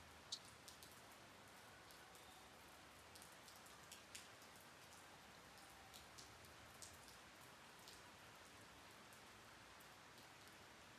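Monsoon rain falling, heard as a faint steady hiss with scattered individual drops ticking close by.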